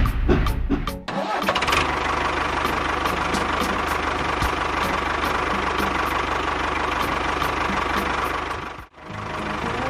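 A small motor starts up about a second in and runs steadily. It cuts out abruptly near the end, then comes back.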